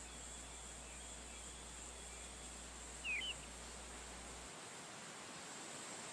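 A single short bird chirp about three seconds in, over a steady high hiss of outdoor background.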